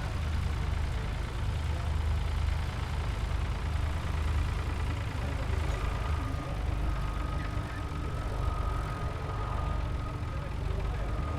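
Light aircraft's piston engine and propeller running steadily, with a thin steady high tone joining about halfway through.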